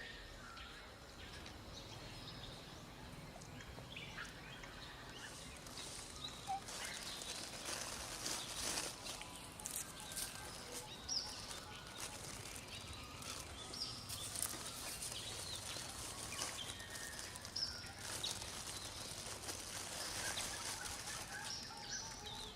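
Forest ambience: scattered short bird chirps and calls over a steady background hiss, with a few sharp crackling sounds.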